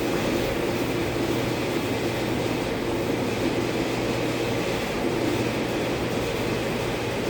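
Steady machine drone with a low, constant hum underneath, unchanging throughout.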